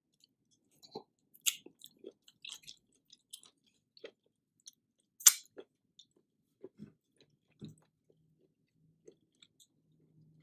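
Close-up eating sounds: irregular chewing and soft mouth noises, with two sharp crisp clicks or crunches about one and a half and five seconds in, the second the loudest.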